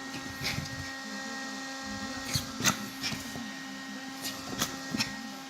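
Small electric mini fan running with a steady motor whine, cut by several sharp clicks and snaps at irregular moments.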